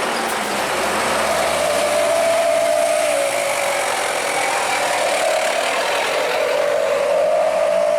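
Heavy truck's engine and drivetrain running, with a steady whine that sags slowly in pitch about three seconds in and climbs back near the end.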